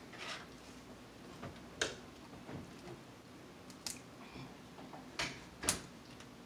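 Mouth sounds of eating crab: a few sharp, wet smacking clicks while chewing, the loudest near the end.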